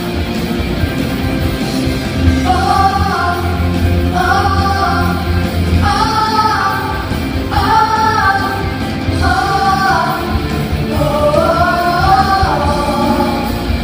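A song is sung to an instrumental backing track. The melody comes in short phrases of about a second each, with brief gaps between them, over a steady bass-heavy accompaniment.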